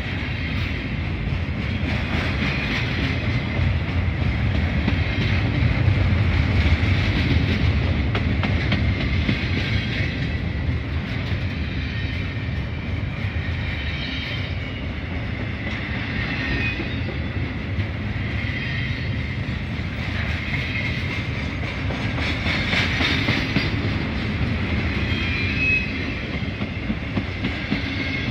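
Norfolk Southern freight train's double-stack container cars rolling past close by: a steady rumble of steel wheels on rail with some clickety-clack over the joints, and a high-pitched wheel squeal coming and going.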